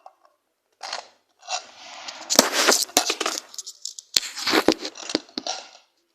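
Small plastic toy container being worked open by hand: scraping and rustling with several sharp plastic clicks and snaps.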